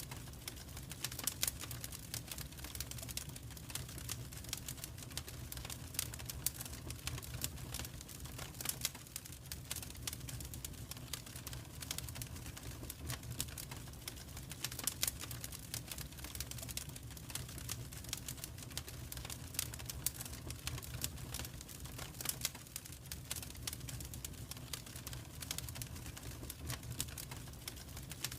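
Wood fire in a fireplace crackling, with dense, irregular sharp crackles and pops over a low steady rumble.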